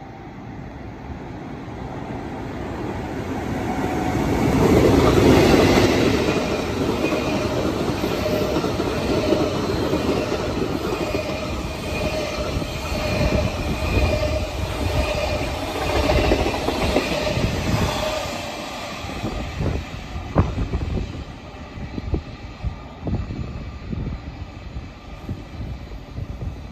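Freight train passing at close range: the rumble builds to its loudest about five seconds in, then holds as the wagons rush past with a steady ringing tone from the wheels. Toward the end it breaks into separate sharp wheel clacks over the rail joints as the last wagons go by.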